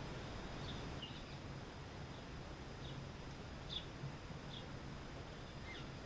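Small songbirds chirping: several short, high chirps spaced irregularly, over a steady low hum and background hiss.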